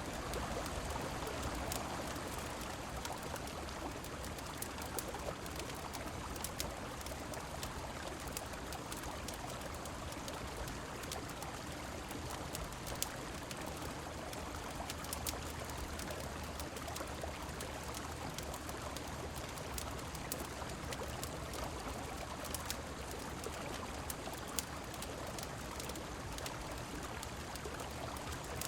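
Steady rushing of river water with rain falling, mixed with scattered sharp crackles and pops from a fireplace.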